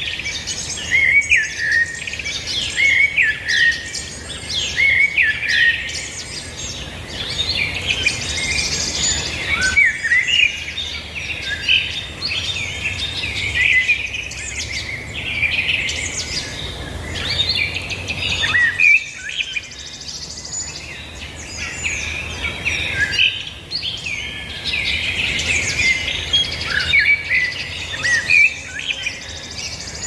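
Several birds chirping and singing over one another, a dense run of short high chirps and rising notes that eases off briefly about nineteen seconds in.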